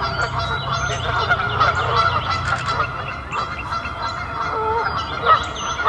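Canada geese honking, many short calls overlapping one another without a break.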